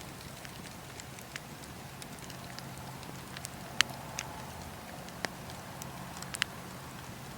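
Wood fire burning in a fireplace, with a steady low rumble and hiss under scattered sharp crackles and pops, the loudest pop a little under four seconds in.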